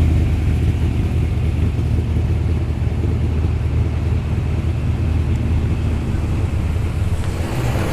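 Holden Commodore's engine running at low revs with a lumpy, uneven note, the rumble steady and low.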